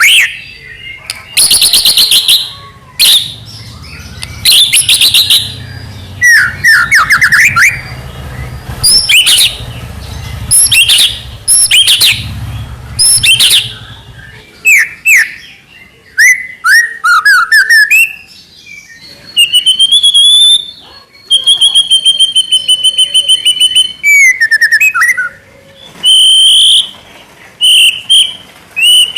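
White-rumped shama (murai batu) singing loudly in varied phrases: fast stuttering rattles (the 'trotol' style), quick sweeping notes and, past the middle, a few long held whistles.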